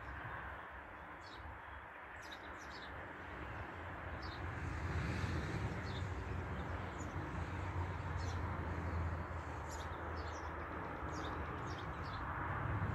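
Small birds chirping in short, scattered high calls over a steady low rumble and hiss of outdoor background noise.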